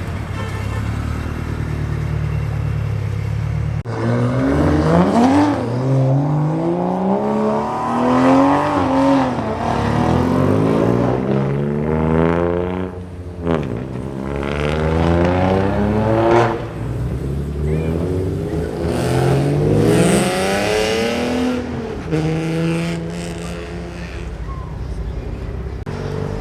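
Car engine idling, then accelerating hard several times: its pitch climbs steadily and falls back sharply at each gear change, about four or five pulls in all.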